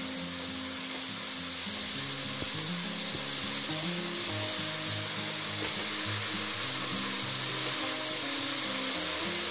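Chopped cauliflower sizzling steadily in olive oil as it is sautéed in a stainless steel pot, with a silicone spatula stirring and scraping through it. Background music with a melody plays underneath.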